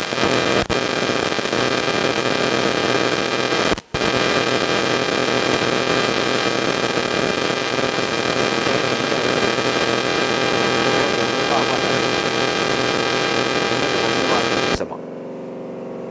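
Loud electrical hum and static, many steady tones over a dense hiss, cutting out for an instant about four seconds in and dropping off sharply near the end, leaving a fainter hum.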